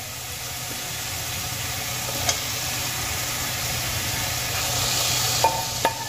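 Spiced masala frying in oil in a kadai, a steady sizzle, as fried potato cubes go into the pan. A sharp click about two seconds in and two more near the end.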